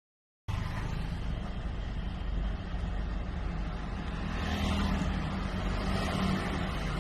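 Škoda Kodiaq's 1.4 TSI four-cylinder turbo petrol engine running steadily, cutting in suddenly about half a second in. The owner reports it making an abnormal noise and shaking, with the engine warning light on.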